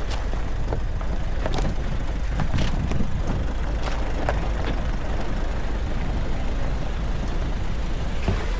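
Nissan Navara pickup running downhill: a steady low rumble with scattered sharp clicks and knocks over it.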